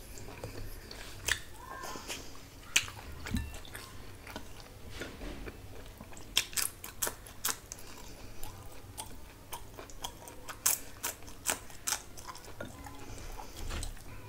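Close-miked chewing of food, with many short wet mouth clicks and smacks, coming thickest in the middle of the stretch.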